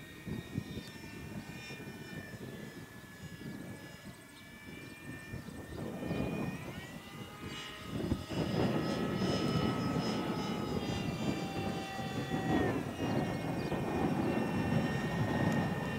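The high whine of a 70 mm electric ducted fan on a Dolphin RC jet in flight, made up of several tones together. Its pitch rises about six seconds in and drops again about twelve seconds in. Wind buffets the microphone, and gets louder in the second half.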